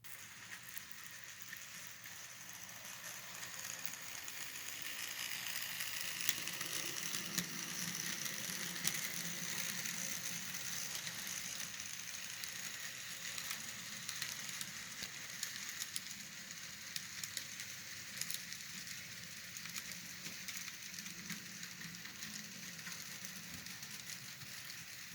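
N scale model train running along the layout track: a steady mechanical whir from the motor and gears, with small clicks from the wheels on the rails. It grows louder over the first several seconds as the train approaches, then slowly fades as it moves on.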